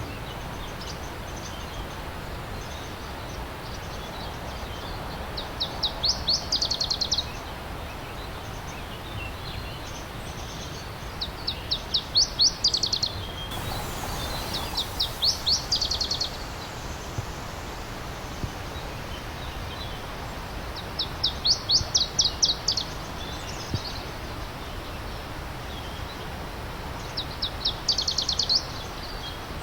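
A songbird repeating a short, fast trill of high notes, about a second long, every five seconds or so, over the steady rush of a stream.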